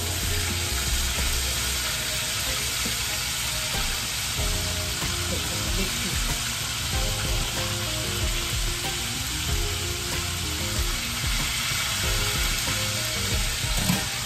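Chicken wings frying in a pan of hot oil, a steady sizzle.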